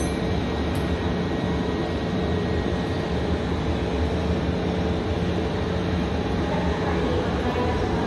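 Steady hum and rumble of a Kintetsu electric train at a terminal platform, even in level throughout.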